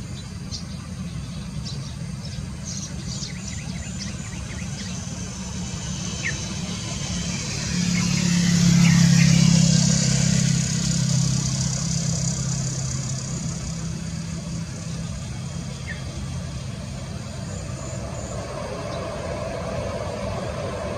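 ATR 72 turboprop engines and propellers running as the aircraft goes by: a steady low hum with a high hiss that swell to a peak about nine seconds in, then fade back to a steady hum.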